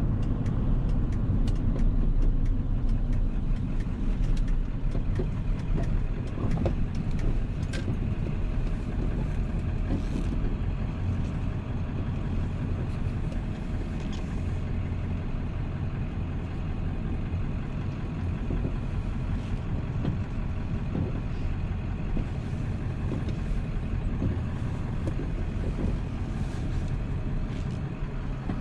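A 7.3 Powerstroke V8 turbo-diesel running steadily as the truck drives along, with road noise; a little louder in the first few seconds, then even.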